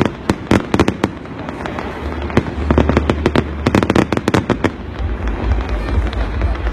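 Fireworks display bursting: clusters of rapid sharp bangs and crackles in the first second and again from about two and a half to four and a half seconds in, with a low rumble building from about five seconds on.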